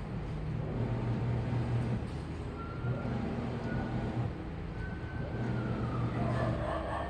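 Washing machine running with a steady low motor hum. A faint high whine comes and goes over it and slides down in pitch about six seconds in.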